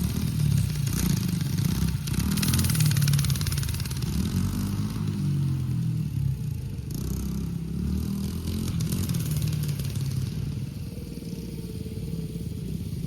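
Small off-road vehicle engine running, its pitch rising and falling as the rider revs up and eases off; loudest a couple of seconds in.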